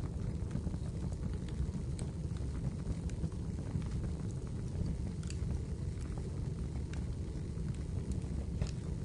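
Wood fire burning in a fireplace: a steady low rumble with scattered crackles and pops every second or two.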